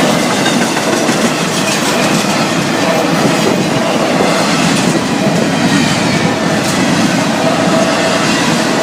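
Freight cars of a Florida East Coast Railway train rolling past close by: a steady, loud rumble of steel wheels on the rails with clickety-clack from the wheels over the track.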